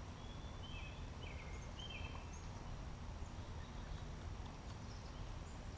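Outdoor ambience with a steady low rumble, and a few short, high bird chirps in the first couple of seconds.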